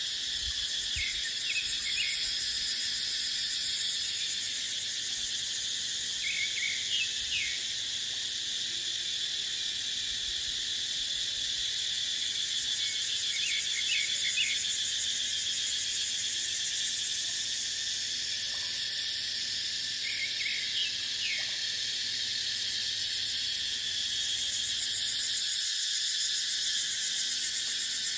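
Chorus of cicadas: a dense, steady high-pitched buzz that slowly swells and eases. A short group of chirps recurs about every six or seven seconds.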